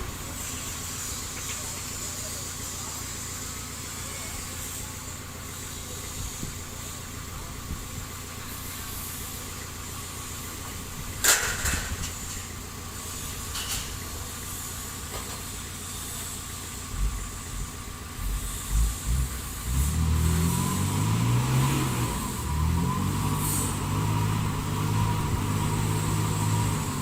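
Engine of heavy construction machinery running steadily, with a sharp knock about eleven seconds in; from about twenty seconds the low engine sound grows louder and varies.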